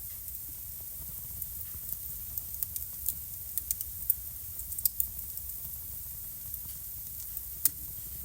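Wood fire burning in a home fireplace: a steady low rumble and soft hiss with irregular sharp crackles and pops, a few louder ones around the middle and one near the end.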